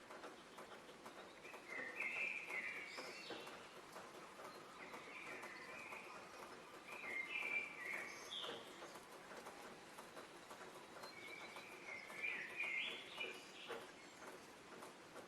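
Songbirds singing in short warbling phrases, about five of them spaced a few seconds apart, over a faint steady background hiss.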